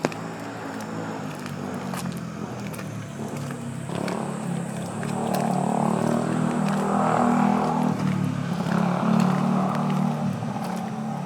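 A car going by slowly on a wet street: its engine hum and tyre hiss swell about a third of the way in, peak past the middle and then ease off. Scattered sharp ticks, like raindrops, sound throughout.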